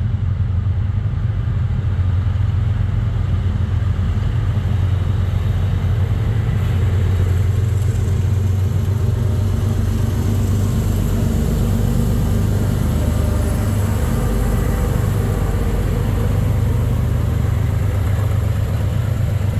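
Diesel freight locomotives running with a loud, steady low rumble and engine hum.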